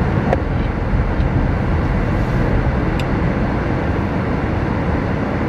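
A car running, heard as a steady low rumble with no breaks.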